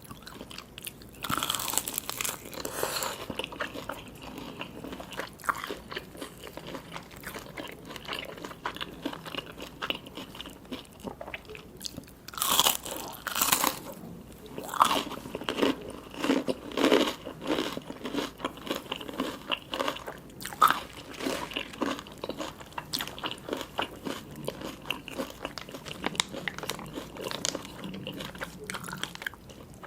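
Close-up eating sounds of a person biting into and chewing crunchy food: irregular crackling crunches and chewing. Louder bursts of crunching come about a second and a half in and again around twelve to fourteen seconds.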